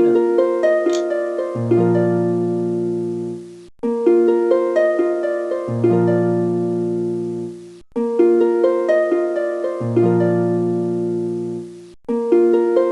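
Background music: a short harp-like plucked-string phrase of quick notes over sustained low notes, looping about every four seconds.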